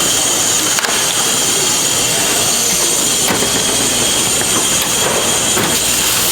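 Steady hissing of steam from a dumpling steamer, with a sharp knock about a second in and a couple of fainter clicks later.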